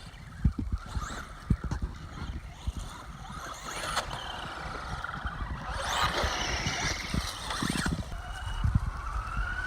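Castle Creations brushless electric motor of a Traxxas Rustler RC truck whining, its pitch rising and falling as the truck speeds up and slows down, with scattered low thumps.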